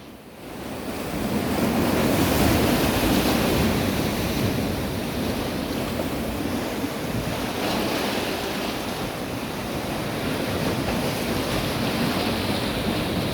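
Sea waves washing in a continuous wash of noise that builds over the first couple of seconds and surges again near the middle, with wind buffeting the microphone.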